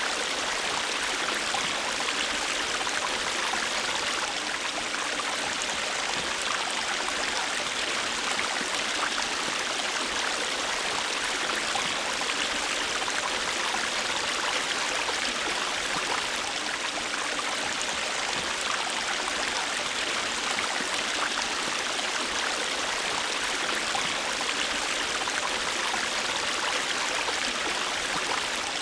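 River water flowing steadily over rocks, a continuous rushing with fine splashing and babbling.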